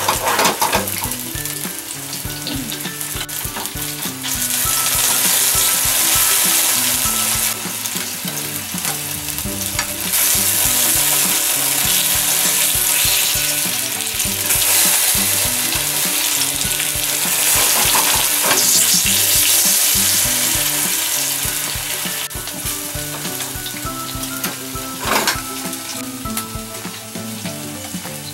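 Rounds of mountain yam frying in oil in a nonstick pan, a steady sizzle that swells louder in stretches as the slices are turned, with a sharp click of cooking chopsticks against the pan near the start and again near the end.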